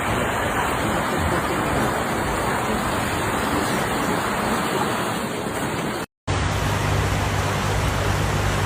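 Steady outdoor rushing noise. About six seconds in it cuts out for a moment, and when it resumes, a low steady hum runs under it.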